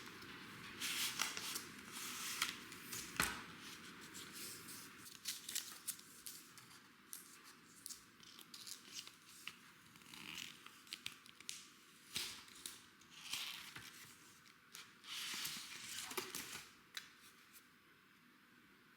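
Packaging being opened by hand: scissors snipping and paper or plastic being torn and rustled, a quiet, irregular run of short clicks and crinkly scrapes.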